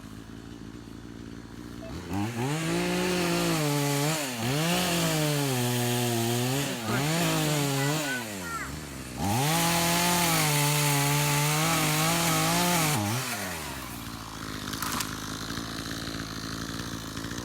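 Gas chainsaw running at full throttle, its pitch sagging and recovering several times as the chain bites into wood. About thirteen seconds in it drops back to a quieter idle.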